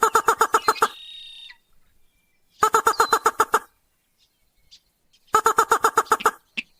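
Crake (mandar padi) calling in three bursts of fast, harsh repeated notes, each burst about a second long with short pauses between. This is a lure call of the kind used to bring others of its species in.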